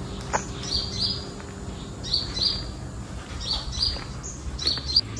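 A small bird calling: short high chirps given in pairs, repeated about every second and a half, over a steady low hum.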